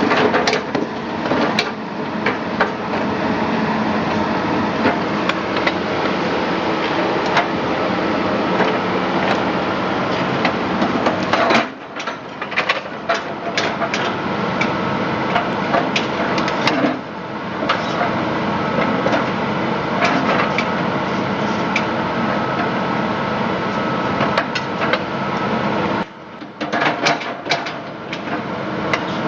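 A machine running steadily under frequent sharp metal knocks, like hammer blows during excavator track repair. The running sound cuts out briefly twice, once near the middle and once near the end.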